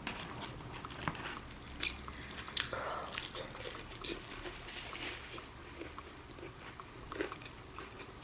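Close-miked chewing of food, with scattered small crunches and wet mouth clicks.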